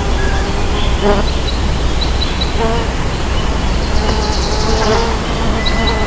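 Mason bees buzzing in flight around their nest block, with each hum wavering in pitch as a bee passes. A few short, high chirps sound over a steady background hum.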